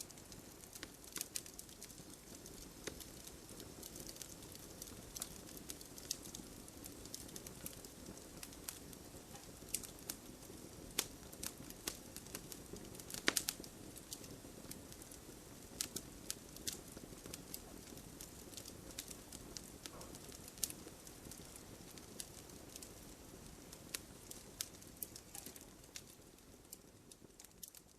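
Campfire burning: irregular sharp pops and crackles over a low steady rumble of flames. One louder pop comes about halfway through, and the sound fades out near the end.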